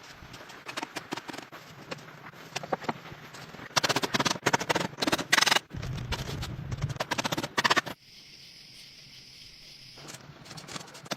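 An irregular series of sharp knocks and taps, densest about four to six seconds in, with a quieter hissing stretch near the end.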